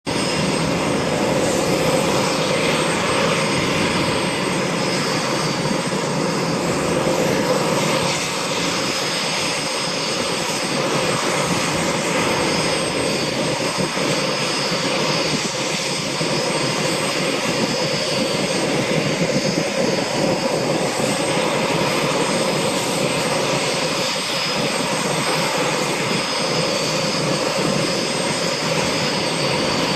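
Sikorsky UH-60 Black Hawk helicopter's twin turboshaft engines running steadily, with a high turbine whine over a loud, even rush of noise.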